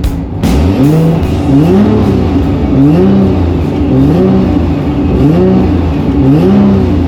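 Nissan Skyline R32's billet RB28 straight-six being blipped on the throttle, revving up and dropping back about once a second, seven times in a row.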